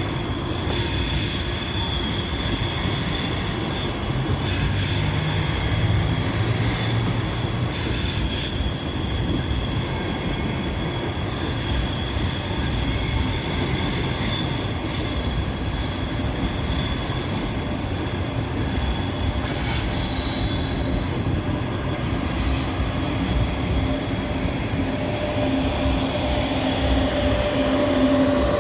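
Passenger train moving through a station. Its wheels squeal on the rails in steady high tones over a continuous rumble, with a few sharp clacks along the way.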